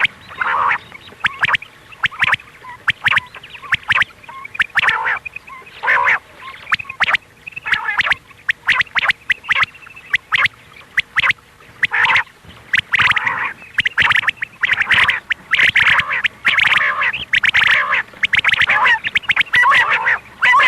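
Quail calling over and over in quick runs of short, harsh calls mixed with sharp clicks. The calls come thicker in the second half.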